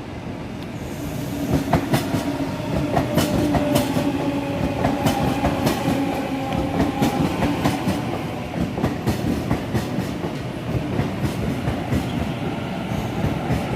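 Sydney Trains electric passenger train arriving at the platform: a steady motor hum that builds over the first couple of seconds, with the wheels clicking and clacking over the rail joints throughout.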